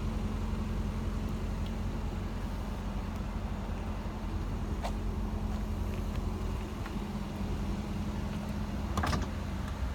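Mercedes-Benz S500 coupe's 4.7-litre V8 petrol engine idling with a steady low hum, with two short clicks about five and nine seconds in.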